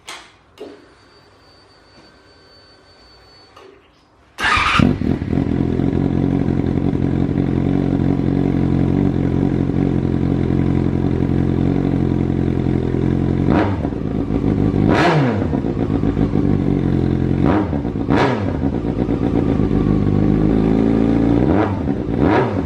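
Yamaha FZ6 (Fazer 600) inline-four with a full Leo Vince exhaust starting after a few seconds of faint clicks and a thin whine. It catches about four seconds in and idles, and the throttle is blipped in quick revs about four times in the second half.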